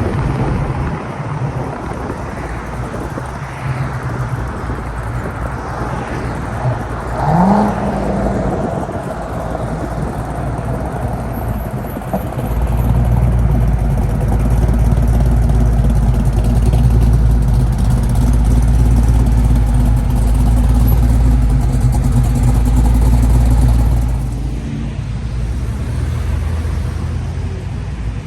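Car engines running in slow cruise traffic. A brief rising engine note comes about seven seconds in, and a deeper, louder engine rumble runs from about twelve seconds to twenty-four seconds.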